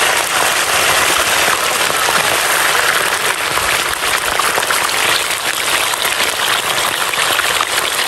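A large batch of chicken wings frying in hot oil in a wide wok, a loud, steady sizzle and crackle of many bubbles as the wings first hit the oil.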